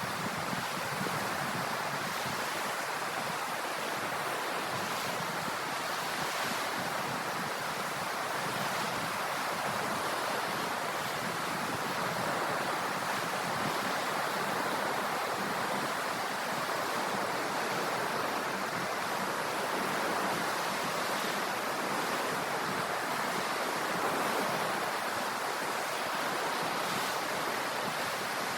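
Ocean surf: a steady rush of waves breaking and washing, swelling slightly now and then.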